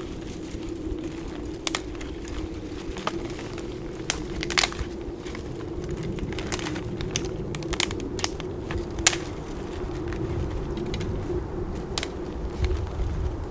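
Dry twigs and branches snapping and crunching while firewood is gathered in snow: irregular sharp cracks, a dozen or so, over a steady low hum.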